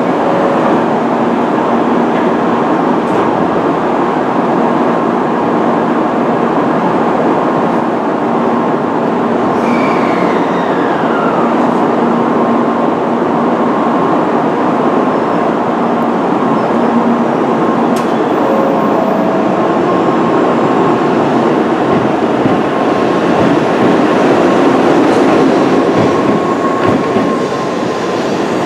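Tokaido Shinkansen bullet train at a station platform: a steady loud hum with a few held tones while it stands, then pulling out, with the noise swelling over the last few seconds as the cars slide past. A brief falling whine sounds about ten seconds in.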